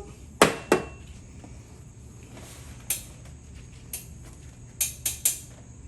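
Sharp clicks and knocks of small hard objects being handled: two close together about half a second in, single ones around three and four seconds in, and three quick ones near the end.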